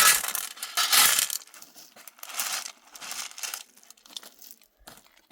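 Small loose pebbles crunching and clinking in a series of scraping strokes about a second apart, the first two loudest, then fading.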